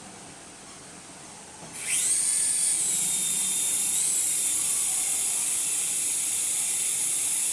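Small electric rotor motors of a toy remote-control helicopter spinning up about two seconds in with a quickly rising whine, then running at a steady high-pitched whine.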